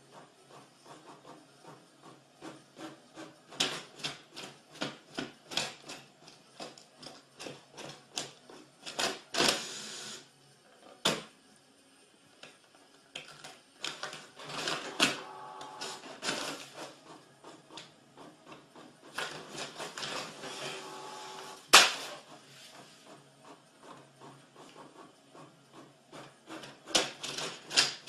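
A printer running: its mechanism whirs in stretches and gives off many sharp clicks and knocks.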